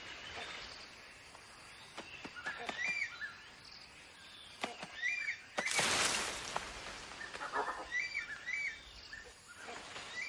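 Rainforest ambience of bird calls: a short chirped call repeated in pairs and triplets every couple of seconds, with a brief loud rushing noise about six seconds in.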